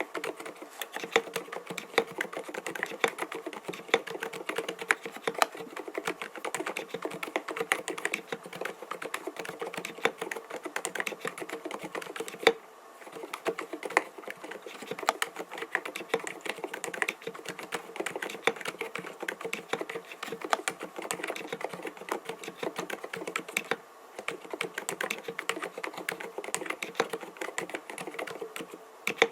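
Typing on an mStone Groove T 87A mechanical keyboard with 45 g low-noise milky switches: a dense, continuous stream of key presses, broken by two brief pauses, one about twelve seconds in and one near the end.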